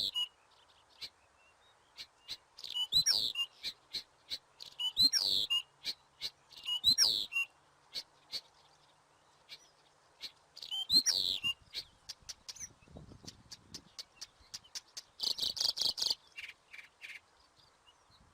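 Common nightingale singing: short, varied phrases of whistles and chirps about every two seconds, with a pause in the middle and a fast run of repeated notes near the end.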